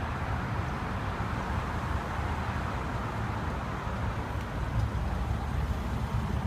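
Steady low rumble of background noise, like distant traffic, with no distinct events.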